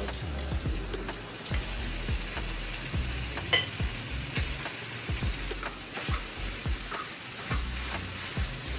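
Sausage, onions and pineapple frying in a pan with a steady sizzle, broken by scattered scrapes and clicks of a utensil stirring. One sharp click about three and a half seconds in is the loudest sound.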